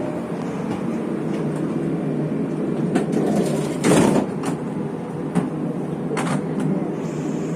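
Steady rumble inside a Taiwan Railways local train carriage, with scattered clicks and a brief louder rush of noise about four seconds in.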